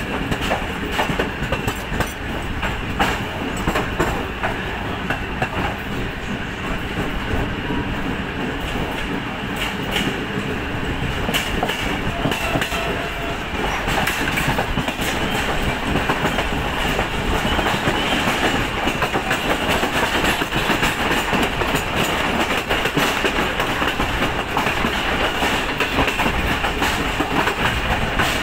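Pakistan Railways Green Line train coaches running along the track, heard from aboard: wheels clicking over rail joints over a steady rolling rumble. The noise grows louder about halfway through.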